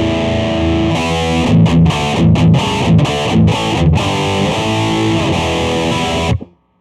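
Electric guitar played through the Donner MultiPad-100 multi-effects unit on a high-gain distortion setting: a held chord, then a choppy riff with short stops, then another held chord that cuts off abruptly near the end.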